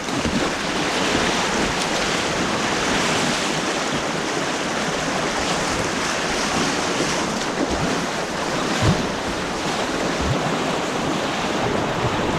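Rushing white water of an artificial white-water kayaking course, a steady churning rush, with a couple of soft knocks about nine and ten seconds in.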